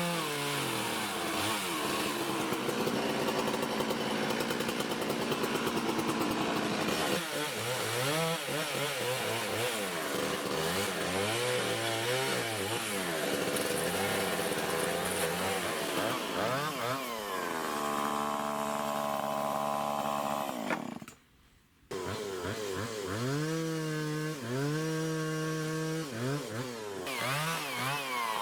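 Chainsaw engine running, its pitch repeatedly rising and falling as it revs and bogs down under load while cutting. The sound cuts out abruptly for about a second near the two-thirds mark, then comes straight back.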